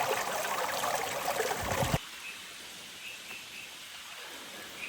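Dense, steady water noise that cuts off abruptly about two seconds in. A quieter background follows, with faint high chirps.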